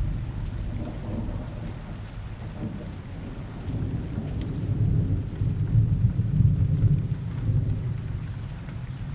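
Steady rain with a low rolling rumble of thunder that swells about four seconds in and fades near the end.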